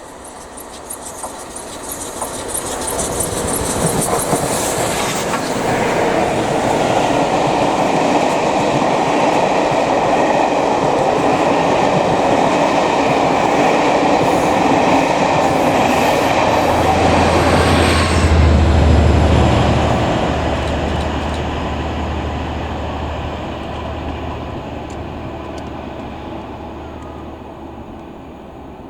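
Train passing close by at speed, its wheels clattering on the rails. The sound builds over the first few seconds, then a low steady drone comes in about two-thirds of the way through and slowly fades.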